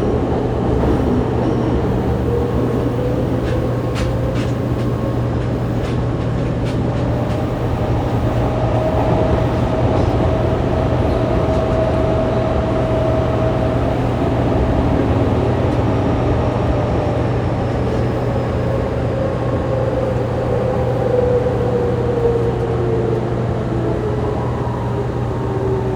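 Onboard running sound of a Fukuoka City Subway 2000 series train with a Hitachi GTO-VVVF inverter: steady rumble of wheels and car with a low hum, over it the inverter-motor whine that climbs slightly, then falls steadily over the second half as the train slows, with air-conditioning noise mixed in.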